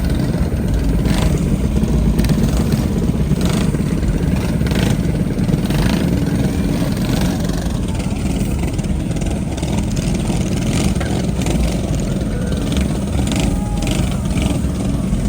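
Vehicle engines running close by at a car meet, a loud steady low rumble with scattered short sharp noises over it.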